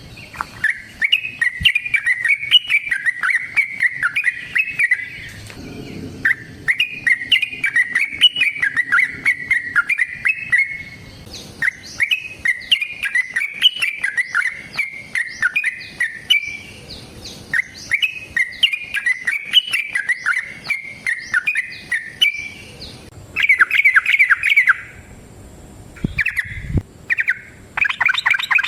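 Yellow-vented bulbul (trucukan) singing long runs of rapid, bubbly chattering notes in phrases of about four to five seconds with short pauses, breaking into shorter bursts near the end.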